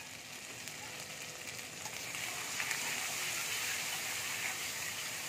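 Spice paste sizzling in hot oil in an iron kadai, a steady high hiss that grows louder about two seconds in.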